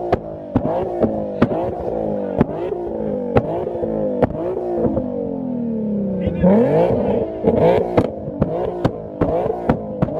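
A car engine revving and falling back again and again, with a sharp rev up about six seconds in, over music with a steady beat.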